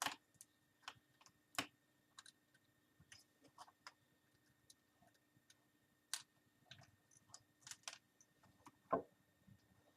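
Faint, irregular small clicks and ticks of a screwdriver turning out a screw from a laptop's plastic screen bezel, with a sharper click about nine seconds in.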